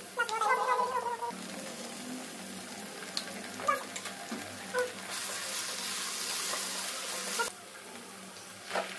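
Sliced peppers, carrots and minced meat sizzling in a non-stick pan, with a few light spatula taps. The sizzle grows louder from about five seconds in and drops back after about seven and a half. A short high-pitched call is heard near the start.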